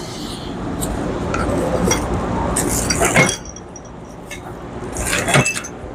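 Small metal carburetor parts clinking and rattling as they are handled and sorted: scattered clicks, with two busier clusters of clinks, one with a brief high ring.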